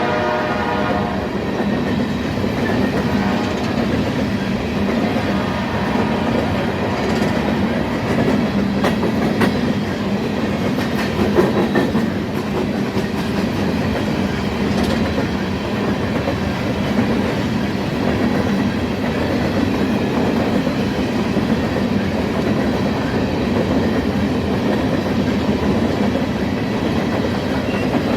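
Freight train passing at speed: steady rumble and clatter of cars rolling by on the rails. A locomotive horn dies away about a second in, and there are a few sharper wheel clicks around ten seconds in.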